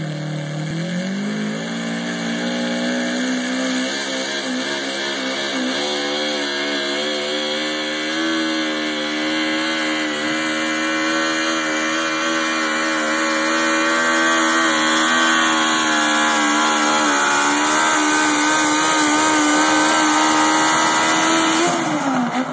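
Garden pulling tractor's engine revving up about a second in, then held at high revs under load for a long pull, before the revs drop away near the end.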